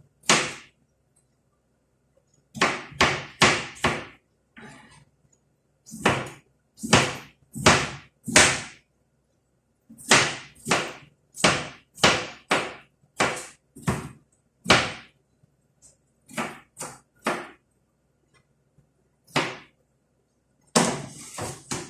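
Knife chopping hard on a cutting board, in irregular runs of heavy strokes, each with a short ringing tail.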